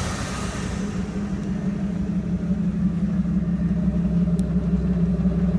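Ford 460 big-block V8 (7.5 L) in a 1992 F250 idling steadily through Flowmaster Super 44 mufflers and exhaust stacks, a low even rumble.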